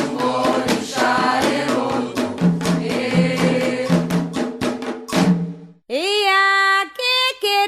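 Candomblé ritual chant: voices singing a repeated call-and-response line over hand drums and struck percussion. About five and a half seconds in, the drums and chorus stop abruptly, and a single voice begins a new song without accompaniment.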